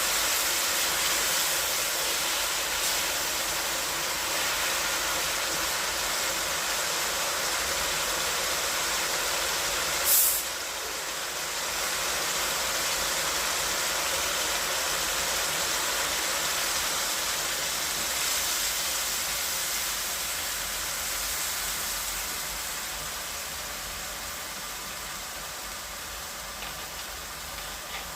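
Chicken sizzling as it fries in a pan: a steady hiss, with a brief louder burst about ten seconds in, easing a little toward the end.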